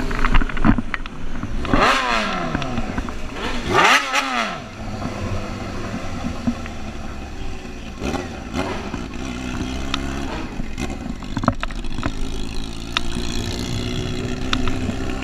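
Motorcycle engines revving and passing close by, the pitch sweeping up and then down twice, about two and four seconds in, followed by a steady engine note.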